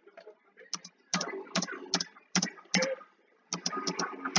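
Computer keyboard keys clicking irregularly, about two sharp clicks a second, over a faint background.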